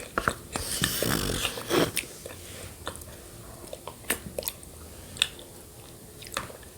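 Close-miked eating sounds of yogurt with shredded coconut: chewing and sharp, wet mouth clicks, with a longer noisy stretch about a second in.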